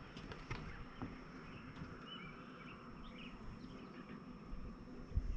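Small birds chirping a few times over a steady outdoor background, with a few light taps.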